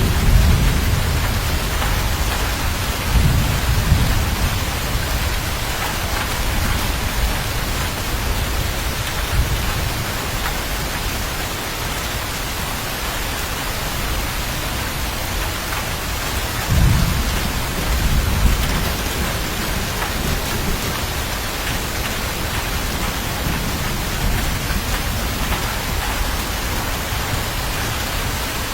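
Thunderstorm: steady heavy rain hissing throughout, with low rolling thunder rumbling near the start and again a little past the middle.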